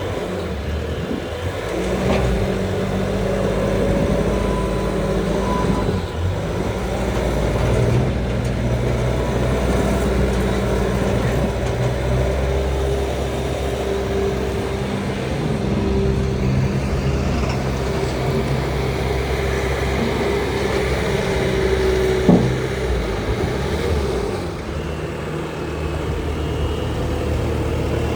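Bobcat T590 compact track loader's 66 hp Tier 4 diesel engine running, its speed stepping up and down several times, with a single sharp clank about 22 seconds in.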